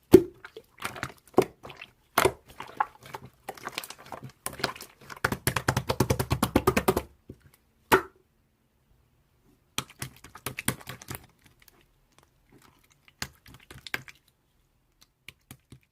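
A series of sharp taps and knocks, with a fast dense clatter in the middle and a pause of about two seconds before a few more taps.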